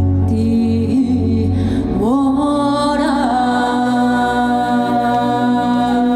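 A woman singing a Korean folk-song (minyo) medley over a live band backing. About two seconds in, her voice slides upward into a long held note.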